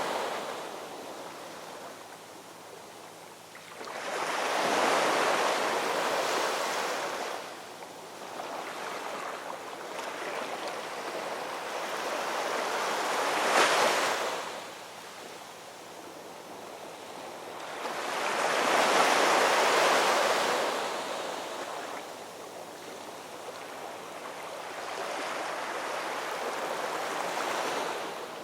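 Ocean waves breaking and washing ashore: four swells of surf, each rising and fading over several seconds, one cresting sharply about halfway through.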